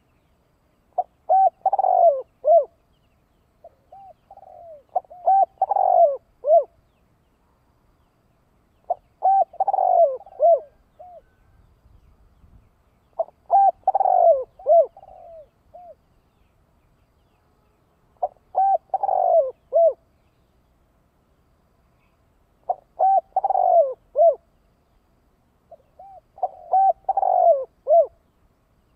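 Spotted dove (cu gáy) cooing its song: a short phrase of several clear, arching coos repeated about every four seconds, seven times. It is a decoy bird's calling song, used to draw wild doves in.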